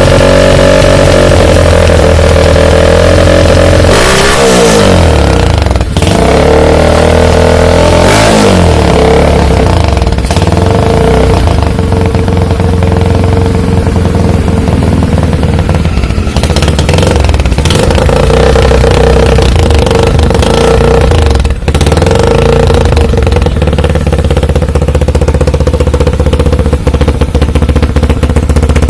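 Yamaha Scorpio motorcycle's single-cylinder four-stroke engine, with a hollowed-out exhaust muffler, running very loud at a fast idle. The throttle is blipped, sending the revs up and back down about 4 and 8 seconds in, with further sharp blips around 16 to 17 seconds.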